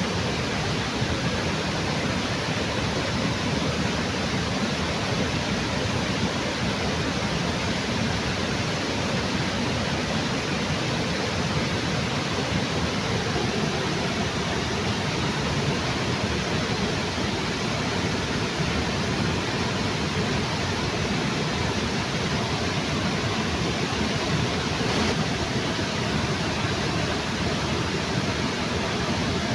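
Waterfall: water pouring and rushing with a steady, even roar.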